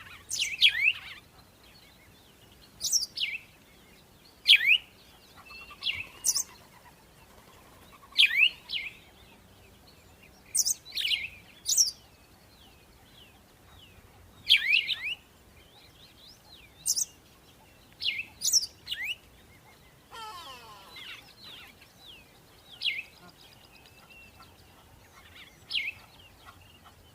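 Birds chirping: short, sharp calls that sweep down in pitch, repeated every second or two, with fainter chirps in between.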